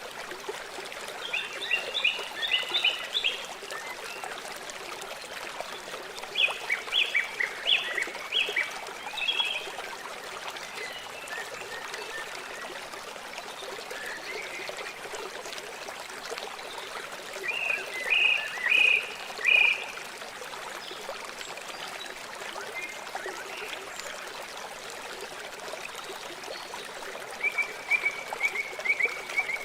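River water flowing steadily. Over it come four short bursts of rapid, repeated high chirping calls, about a second in, around seven seconds in, near the middle and near the end.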